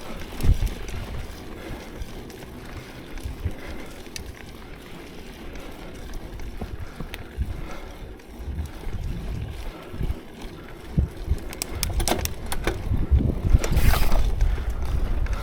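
Mountain bike riding over a dirt trail: a steady low rumble from the tyres and wind on the microphone, with scattered knocks. A cluster of sharp rattling clicks comes late, followed by a louder rush of noise near the end.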